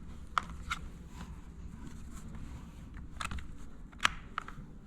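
A few light, sharp clicks and taps of handling at irregular intervals as a USB cable is plugged in between a PowerVision tuner and a laptop, over a low steady hum.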